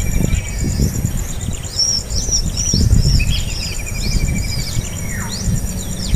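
Birds calling: a run of short, repeated high chirps, two to three a second, joined by a lower buzzy trill and then a call sliding downward near the end. Underneath runs a steady high-pitched insect drone and a low rumble.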